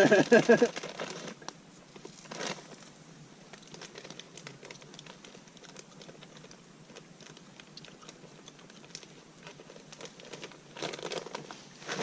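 Campfire crackling faintly, with scattered small pops and snaps.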